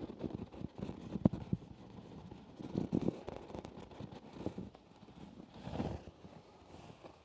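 Close-miked ASMR trigger sounds: irregular soft taps and clicks with small bursts of handling noise, the sharpest click about a second in.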